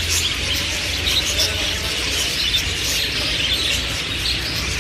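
Many caged small birds chirping and twittering at once, a dense, unbroken chatter of overlapping short calls, over a low steady hum.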